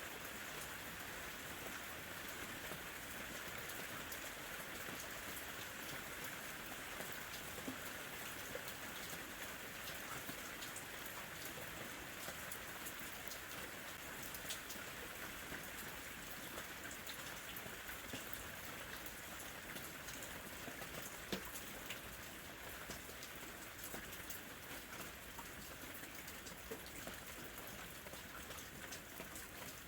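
Steady summer rain falling, an even hiss with many small drops ticking on a surface.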